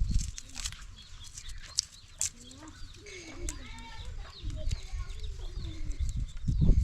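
Chickens clucking, with bursts of low rumbling handling noise on the microphone.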